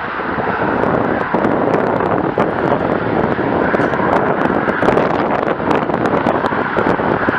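Eurofighter Typhoon jet engine running loud and steady, with wind buffeting the microphone and crackling through it.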